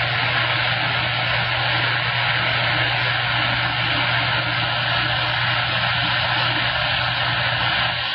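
CB radio receiver hissing with static between transmissions, a steady low hum and a thin steady whistle under the hiss; the noise drops away right at the end.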